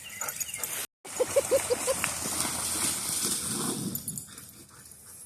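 A dog whining in a quick run of about five short yelps, followed by splashing in shallow water.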